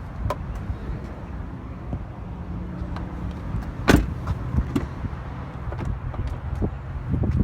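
Pickup truck engine running with a steady low rumble, with scattered clicks and one sharp knock about four seconds in.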